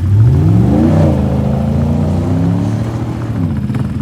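A vehicle engine revs. It starts suddenly, climbs in pitch over about a second, holds there, then drops back near the end.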